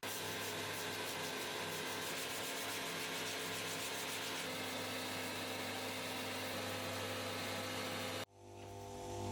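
A small electric motor running steadily, a hum with hiss. It cuts in sharply and cuts off abruptly about a second before the end.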